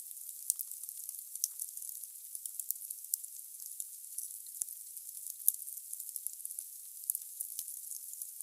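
Firewood burning in a fireplace: a steady hiss with irregular sharp crackles and pops, the loudest pop about five and a half seconds in.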